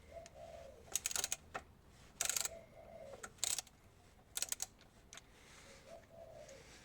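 Socket ratchet clicking in four short, rapid bursts about a second apart as the oil pan drain plug is loosened.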